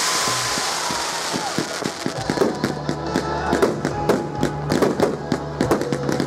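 Fireworks display going off over music: a hiss at the start gives way to dense, rapid bangs and crackles, several a second.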